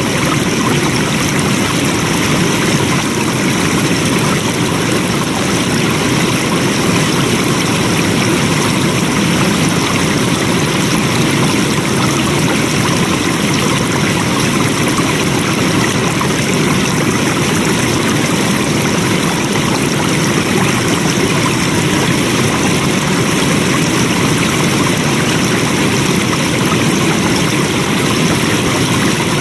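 Flowing water running steadily, a continuous even rush with no breaks.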